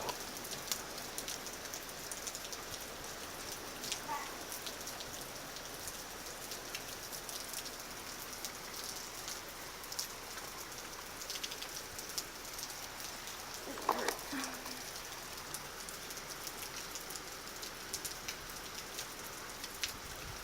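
Hurricane rain falling steadily, with a constant hiss and many small drop impacts close by. One brief louder noise about two-thirds of the way through.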